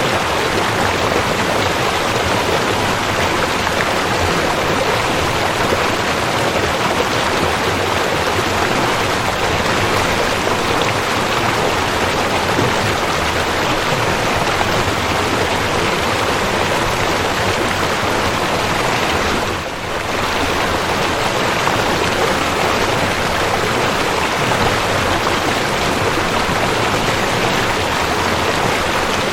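Waterfall: a steady, loud rush of falling water, with a brief dip about two-thirds of the way through.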